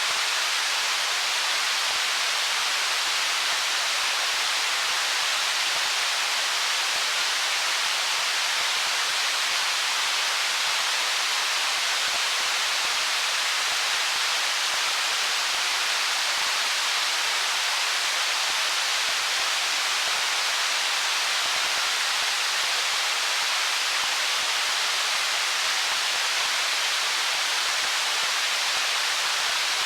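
Stream water flowing over stones: a steady, even rushing hiss that stays the same throughout, without separate splashes or gurgles.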